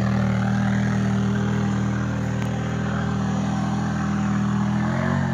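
An off-road vehicle's engine running steadily at low, even revs, its pitch changing slightly near the end.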